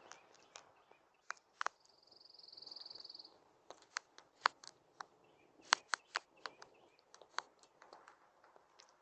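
Rabbit making sharp, irregular crackling clicks that sound like a crackling fire. A short high buzzing trill comes in about two seconds in and lasts just over a second.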